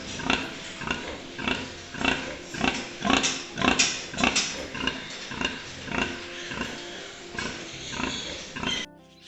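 An animal giving a long run of rhythmic grunting calls, about two a second, cutting off near the end.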